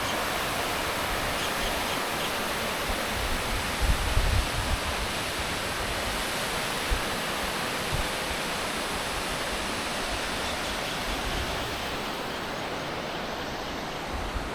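Water rushing at a dam, a steady even roar of falling water, with a few brief low thumps about four seconds in.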